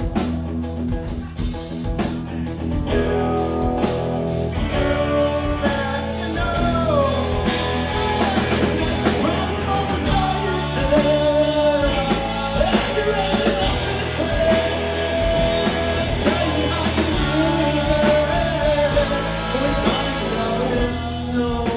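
Live rock band playing a song, loud and steady, with a melodic lead line wandering over a dense low end.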